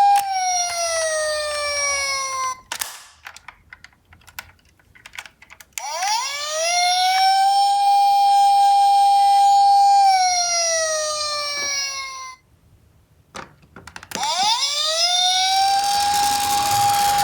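Toy ambulance siren wailing in wind-up style: a steady tone that slides down and dies away at the start, rises again about six seconds in, holds, falls off, then rises and holds once more near the end. Light clicking and rattling fills the gaps between the siren runs.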